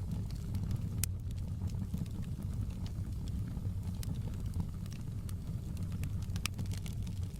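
Wood fire burning in a fireplace: a steady low rumble of the flames with scattered crackles and sharp pops, the strongest pop about a second in.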